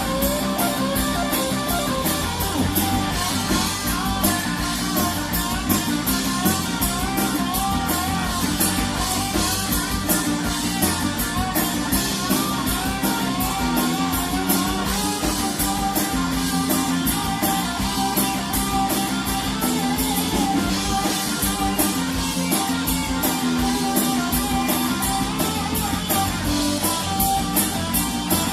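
Live rock band playing an instrumental section: an electric lead guitar playing wavering, bending notes over rhythm guitar, bass, and drums with fast, steady cymbal strokes.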